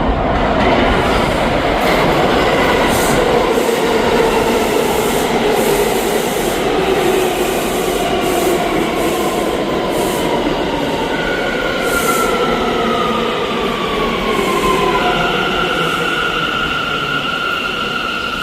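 R179 subway train running on the rails with a steady rumble and hiss and brief clicks. An electric whine slides down in pitch after about ten seconds, then settles into a steady high-pitched tone for the last few seconds.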